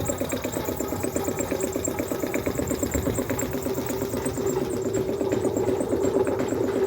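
An engine idling with a steady, rapid throb.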